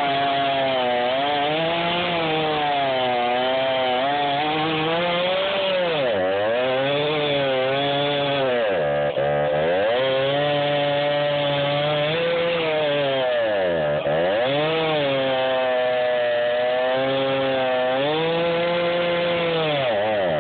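Chainsaw cutting through a downed sycamore trunk. The engine's pitch sags and recovers several times as the chain bites into the wood under load, dropping deepest four times.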